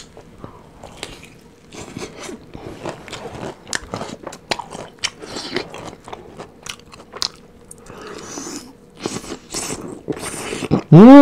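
Crispy fried chicken being bitten and chewed close to the microphone, many crunches in an irregular run. Just before the end a short pitched vocal sound from the eater is the loudest thing.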